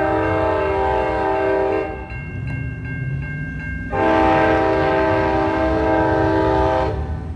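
Norfolk Southern freight locomotive's multi-chime air horn sounding a long blast, breaking off about two seconds in and then sounding a second long blast of about three seconds. The train's low rumble carries on underneath and through the gap.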